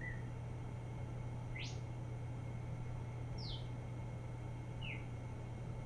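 Synthesized Northern Cardinal song primitives played through speakers from an RP2040 birdsong synthesizer: single short whistled notes about every second and a half, one sweeping up steeply and the others sliding down. A steady low hum runs underneath.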